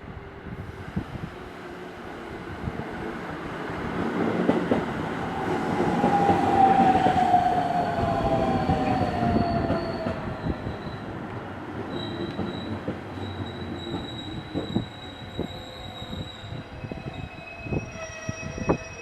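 Electric train running past, building to its loudest about a third of the way in, its wheels knocking over rail joints, with a whine that falls in pitch as it goes by.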